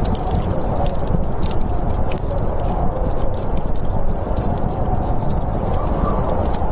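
Wood fire crackling with irregular sharp pops over a steady low rush of snowstorm wind.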